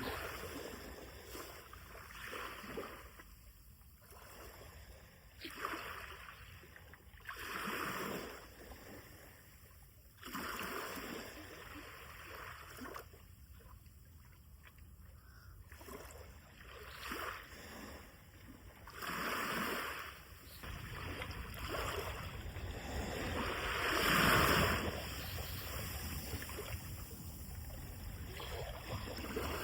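Sea of Japan surf breaking and washing up the beach in repeated swells every few seconds. It grows fuller and steadier in the last third, loudest about twenty-four seconds in.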